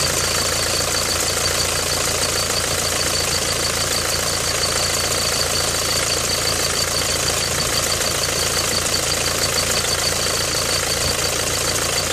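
Peugeot 307 HDi 110 four-cylinder diesel engine running steadily at idle, with a fast, high-pitched ticking repeating several times a second over the engine drone: the noise the owner posts as an engine sound problem.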